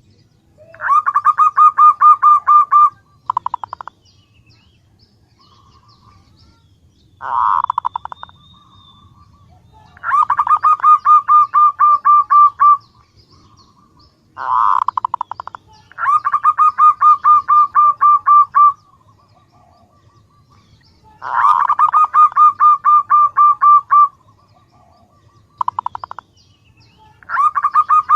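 Female zebra dove (perkutut) calling to draw a male: repeated phrases of rapid staccato cooing notes. Each phrase starts with a short burst and runs for two to three seconds, coming about every five to six seconds.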